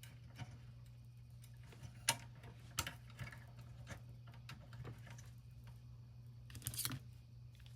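Sparse, light clicks and taps of small parts being handled on a metal toy truck while its tow-hook cord is fitted, a few sharp ones about two and three seconds in and a quick cluster near the end, over a steady low hum.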